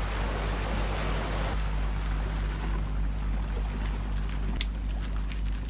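Steady outdoor wind and water noise by the sea, with a deep rumble on the microphone, and one sharp click a little before the end.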